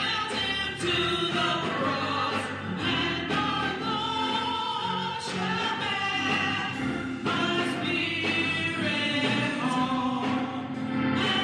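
Gospel choir singing, several voices together in sustained, shifting notes.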